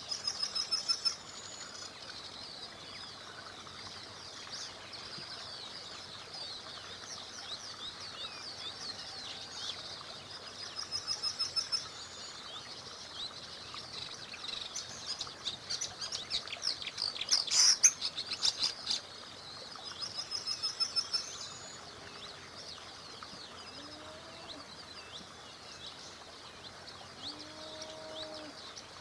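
Several small songbirds singing and chirping, with quick trilled phrases repeated every few seconds and a dense, loud burst of chirps a little past halfway. Underneath runs a faint, steady hiss from the stream.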